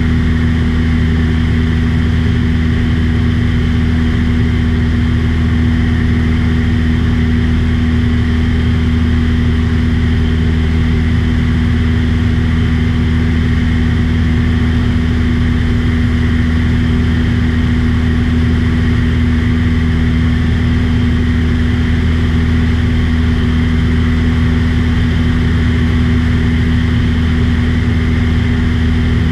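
Small airplane's engine and propeller droning steadily in level flight, one even pitch with no change in speed.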